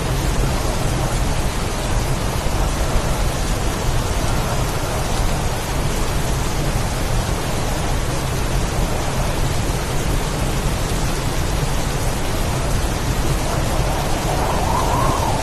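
Steady, heavy storm rain with a deep low rumble underneath, as in a wind-and-rain storm.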